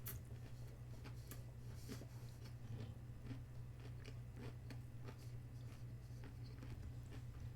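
A person chewing food, giving many small irregular crunches and wet clicks, over a steady low hum.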